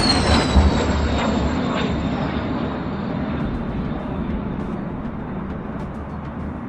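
A jet engine passing overhead: a loud roar with a high whine that drops in pitch right at the start, then a roar that slowly fades.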